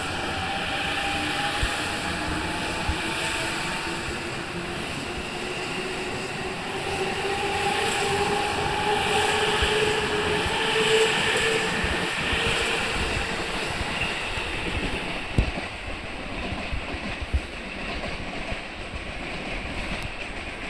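JR East E257-5000 series electric train pulling out and accelerating: its traction motors give a whine that rises in pitch, over the clack of wheels on rail joints. The sound grows fainter near the end as the train moves away.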